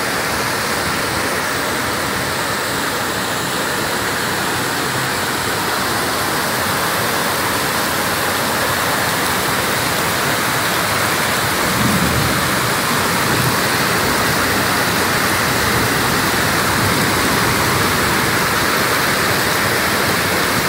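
Heavy tropical downpour: a dense, steady hiss of rain falling on a flooded street.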